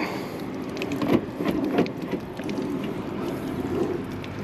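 Steady drone of a running rooftop air-conditioning unit, with a few sharp clicks of metal parts being handled, the loudest about a second in.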